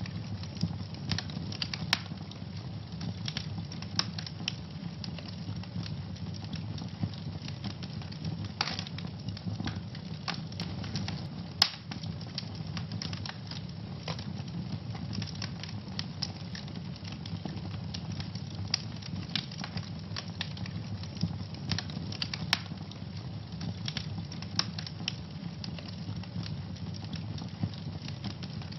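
Wood fire burning in a fireplace, with a steady low rumble of the flames and irregular sharp crackles and pops, one louder pop about halfway through.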